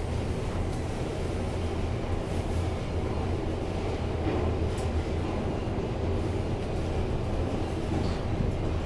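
A 1995 Kone inclined elevator car travelling along its incline, giving a steady low rumble. There is a faint click about five seconds in.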